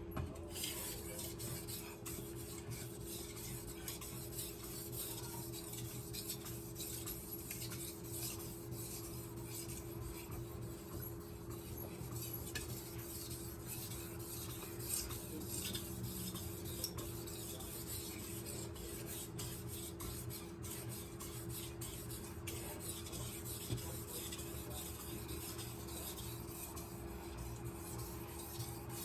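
Kitchen knife blade stroked back and forth over a wet 5000-grit whetstone (Cerax 5000) in a slurry: continuous repeated scraping as the edge is polished with light pressure.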